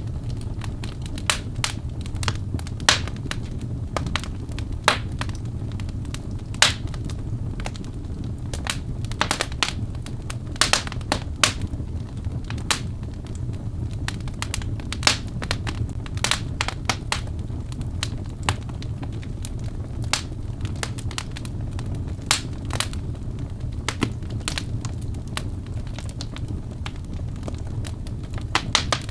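Wood fire burning in a fireplace: logs crackling and popping with sharp irregular snaps, over a steady low rumble of the flames.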